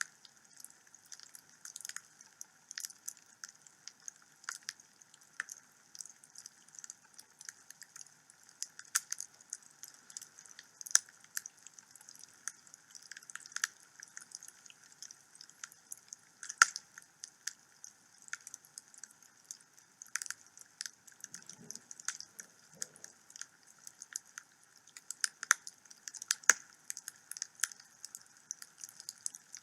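Wood fire in a fireplace crackling, with irregular sharp pops and snaps over a faint steady hiss.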